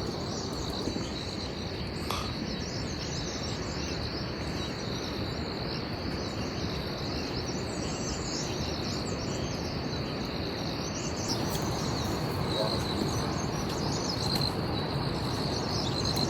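Steady outdoor ambience: an insect's continuous high-pitched trill over an even rushing noise, with faint chirps now and then.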